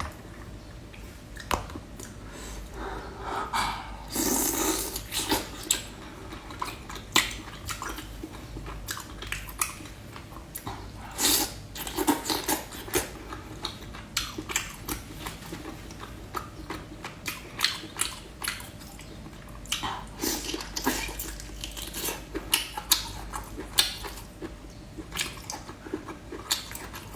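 Close-up chewing and biting of large sea snail meat: irregular wet smacks and clicks, with louder, messier bursts about four, twelve and twenty seconds in.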